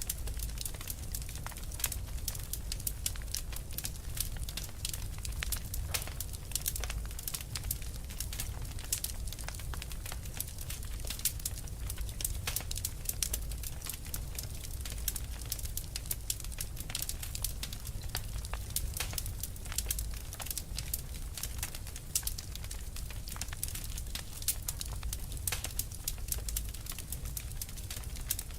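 Wood fire burning, with dense irregular crackles and pops over a steady low rumble of the flames.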